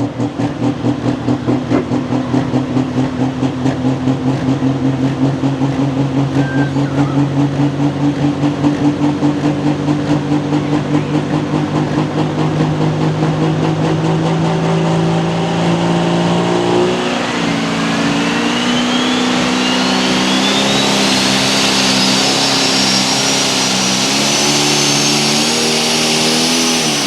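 John Deere 8270R Super Stock pulling tractor's turbocharged diesel engine running hard with a fast pulsing rumble. About 17 seconds in it revs higher, and a turbo whine climbs steadily in pitch. Near the end the engine falls off in pitch as the tractor coasts to a stop on a short pull.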